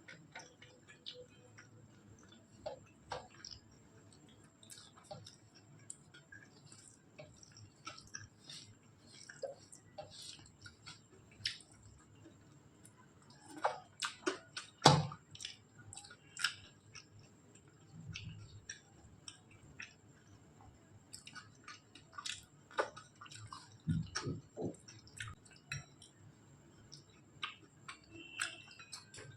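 Close-up eating sounds: wet chewing, lip smacks and mouth clicks while eating rice, dal and curry, in irregular bursts. The sharpest click comes about halfway through, and two low thumps come a little later.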